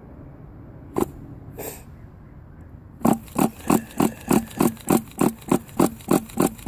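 Dynamite Mach 19 nitro engine being primed at wide-open throttle to draw fuel up the line: a click about a second in, then from about three seconds in a steady run of short strokes, about three a second.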